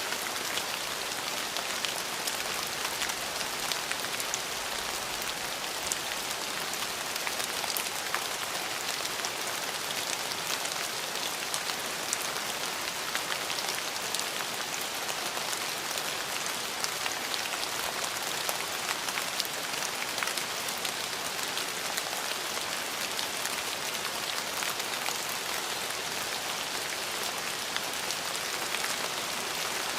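Steady rain falling on a surface, a constant patter with many small drop impacts.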